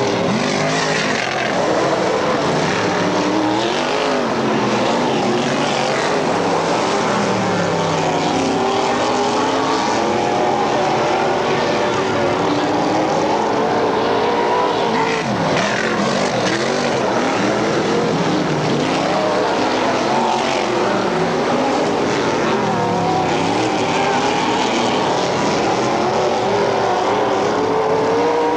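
Several dirt-track race car engines running hard together, their pitch rising and falling over and over as the cars accelerate and back off around the track.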